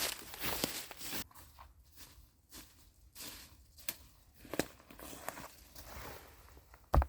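Crunching and rustling footsteps on the forest floor for about a second, then scattered light knocks and cracks, and one sharp thump near the end.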